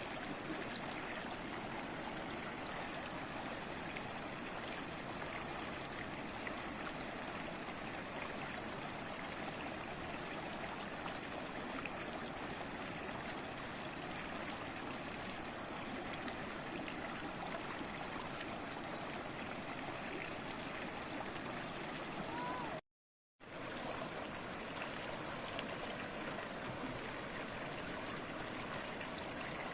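Steady babbling stream of flowing water. It cuts out to silence for about half a second near the end, then resumes.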